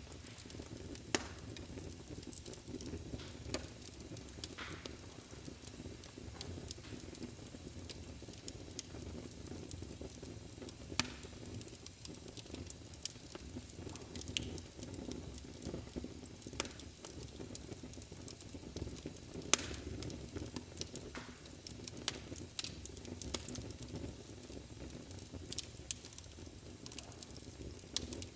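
Wood fire burning in a fireplace: a steady low rush of flame with frequent small crackles and a few sharper pops, the loudest about twenty seconds in.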